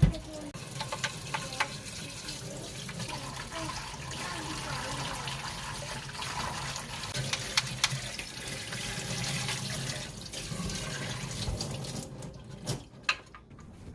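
Water running steadily from a tap and splashing. It stops about twelve seconds in, followed by a few light clicks.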